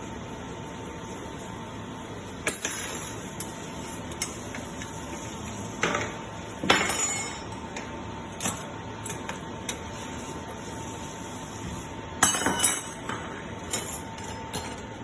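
Dishes and cutlery clinking and clattering as they are taken out of a dishwasher and put away: a series of separate sharp clinks, busiest about two-thirds through, over a steady background hum.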